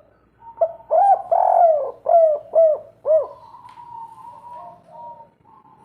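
Spotted dove cooing its three-part 'kuk 3' song: a quick run of about six loud, arched coos in the first three seconds, then softer, drawn-out cooing.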